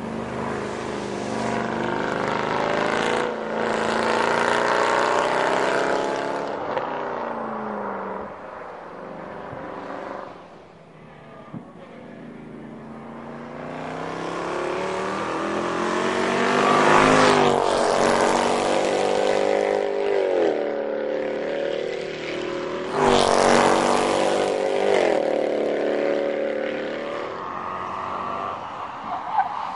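Mercedes-AMG 6.2-litre V8 of a Formula One safety car driving hard on a circuit, its engine note rising and falling with revving and gear changes as it comes past several times. There is a quieter lull about a third of the way through and loud passes near the middle and about two-thirds through.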